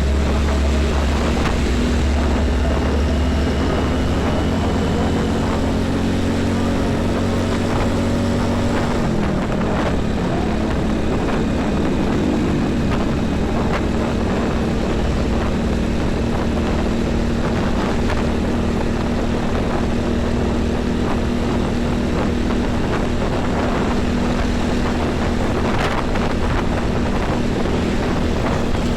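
Heavy diesel truck traffic on a busy highway: a steady, loud engine drone with deep rumble. The engine note drops slightly and the deepest rumble eases about nine seconds in.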